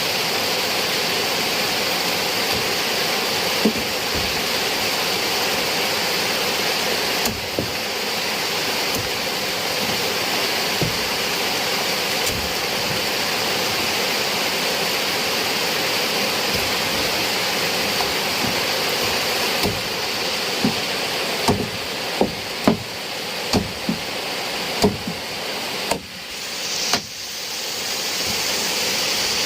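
Heavy rain pouring steadily. In the last third it eases slightly, and a run of sharp taps or drips stands out over it.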